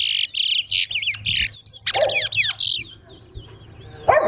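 Caged towa-towa finch singing a fast, chattering song of quick gliding whistles for about three seconds, then stopping. This is one of the songs being counted in a song race.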